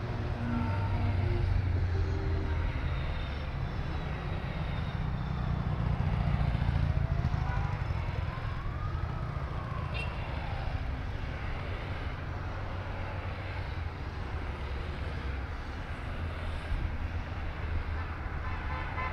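Honda Gold Wing motorcycles riding past in procession, their engines running with a steady low drone that swells twice as bikes go by.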